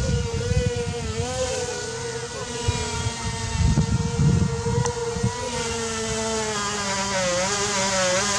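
The three brushless motors and propellers of an XK X450 Aviator VTOL RC airplane whine steadily in flight, the pitch wavering up and down as the throttle changes. Wind buffets the microphone in gusts at the start and again about halfway through.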